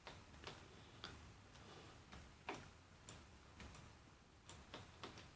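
Near silence with faint, irregular clicks of a computer mouse and keyboard.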